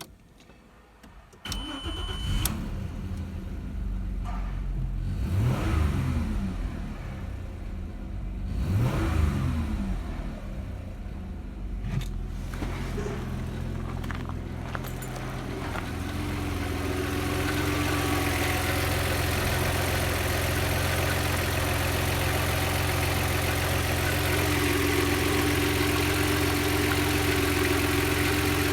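Audi A6 C5's 2.4-litre V6 petrol engine (code ALF) starting, revved up and back down twice, then settling into a steady idle.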